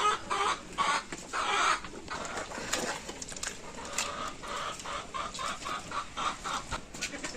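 Chickens clucking, with a quick run of clucks about five seconds in, among scattered short clicks and knocks.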